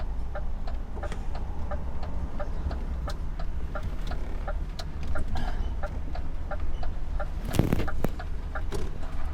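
Truck's turn-signal relay ticking steadily, about three clicks a second, over the low rumble of the idling diesel engine, heard inside the cab. A short hiss cuts across the ticking about seven and a half seconds in.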